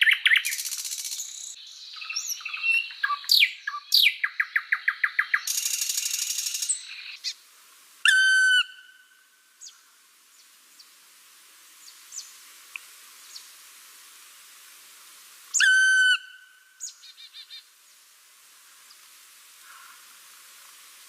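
Small pet parrots (cockatiels and lovebirds) chirping rapidly and busily for the first seven seconds. After that they go mostly quiet, apart from two loud whistled calls about eight and sixteen seconds in and a few scattered chirps.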